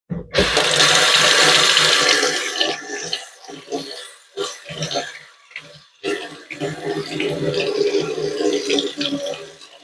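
Water from a kitchen tap running into a sink. It starts suddenly with a steady hiss, then after about two seconds turns irregular and splashy as the stream is broken up by something held under it.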